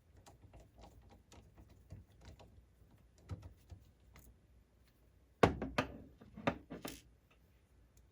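Small clicks and knocks of plastic and metal parts being handled as the laserdisc player's sled motor and its holder are unscrewed and freed. A louder cluster of knocks comes about five and a half to seven seconds in.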